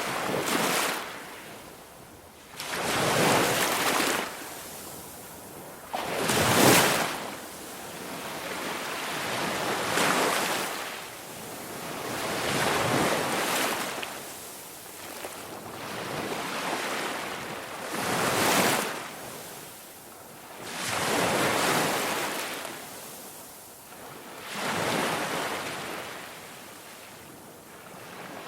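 Ocean waves washing in, each surge of surf rising and falling away, about every three seconds.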